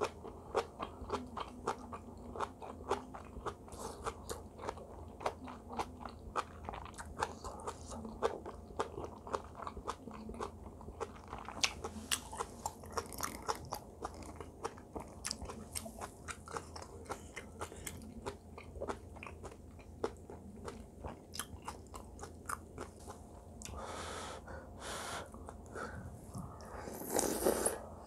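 Close-miked chewing of braised kimchi and rice: a dense run of short crunching clicks as the cabbage is bitten and chewed, with a couple of longer, louder noisy sounds near the end.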